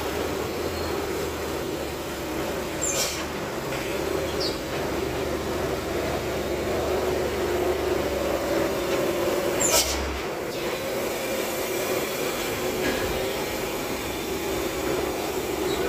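Bus running on the road, a steady engine and road drone with a hum, broken by a few short sharp clicks, the loudest about ten seconds in.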